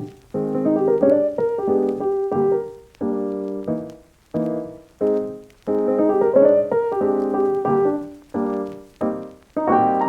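Background piano music: slow phrases of chords and melody notes, each dying away before the next begins.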